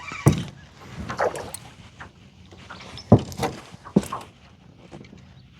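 A few sharp knocks and thumps on a small fishing boat, with the strongest three spread over about four seconds.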